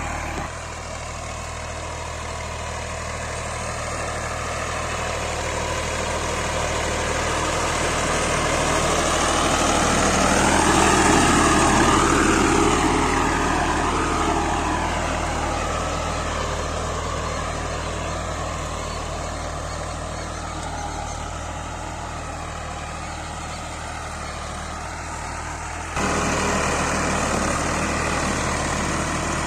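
Ghazi model 17 tractor engine running steadily. It grows louder to a peak about eleven seconds in, with its pitch bending as it passes, then fades. The level jumps suddenly near the end.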